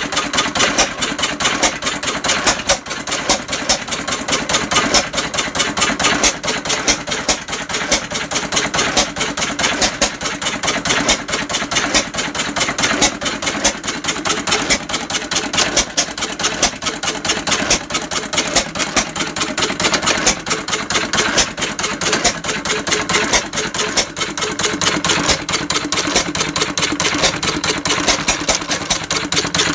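Sattley 1.5 hp single-cylinder hit-and-miss stationary engine running, with a steady fast mechanical clatter of clicks throughout.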